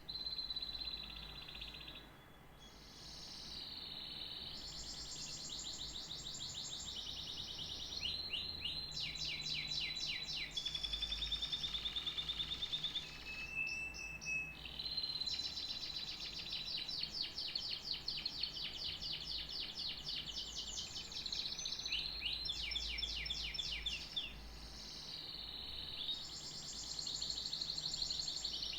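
Domestic canary singing a long, high-pitched song of rapid trills and rolling phrases, with a couple of short breaks.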